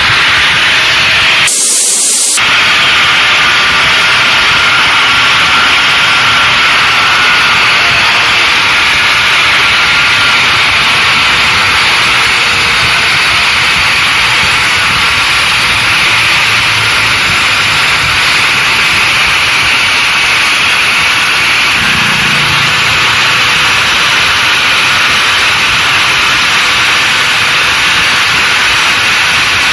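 Handheld cut-off machine, mounted in a homemade jig, running steadily and cutting through a 53 mm pipe. Its loud hiss barely drops at the low end briefly about two seconds in.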